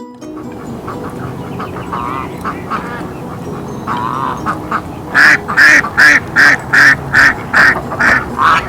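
Duck quacking: a few softer calls, then about five seconds in a loud run of about nine quacks, two to three a second.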